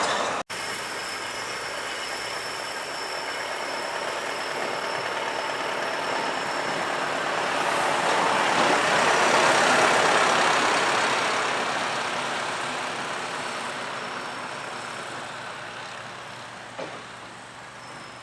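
A heavy truck driving past, the engine and tyre noise growing louder to a peak about halfway through and then fading away as it moves off.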